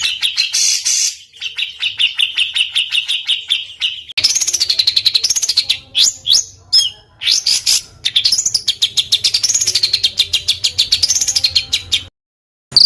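A small songbird singing fast, harsh rattling trills ('tembakan kasar'): dense rolls of rapid repeated notes, some swinging up and down in pitch. The trills are interrupted by a few short pauses and stop abruptly in a brief silent gap near the end.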